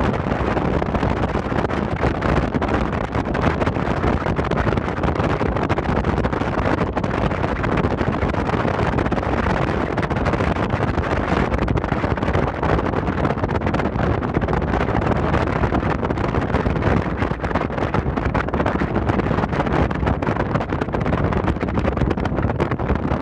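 Steady wind noise on the microphone over the low, even rumble of a car ferry under way.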